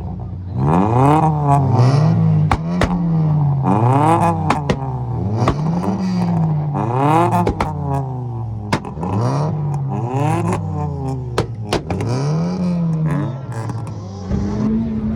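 A tuned engine revved repeatedly, its pitch climbing and dropping about eight times, with sharp pops and cracks between the revs. Near the end it settles into a steadier running note.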